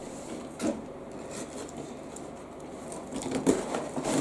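Cardboard toy packaging being handled and torn open by hand: low rustling and scraping, with a sharp tap a little under a second in and busier handling near the end.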